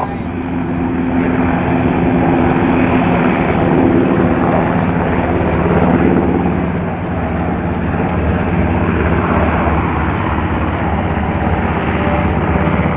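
Military aircraft engines running loudly and steadily, swelling a little about four to six seconds in.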